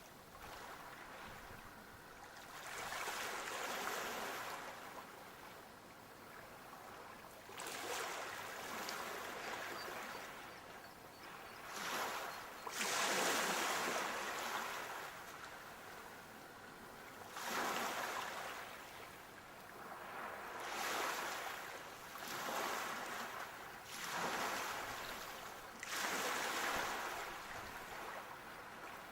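Sea waves breaking and washing up the shore, one after another every few seconds, each a rush of surf that swells and then fades.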